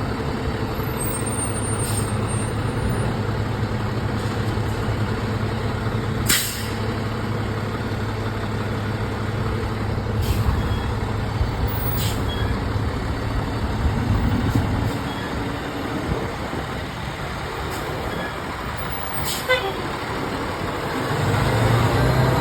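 Fire truck's engine running, with two short, sharp air-brake hisses. The engine sound eases off about two-thirds of the way through and builds again near the end.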